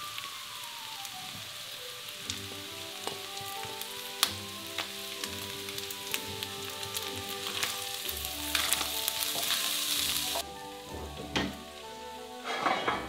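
A rice, minced meat and almond filling sizzling in a stainless steel pan while fresh herbs are stirred in with a wooden spoon, with scattered clicks of the spoon on the pan. The sizzle drops away about ten seconds in, and a brief clatter near the end comes as the pan is moved off the burner.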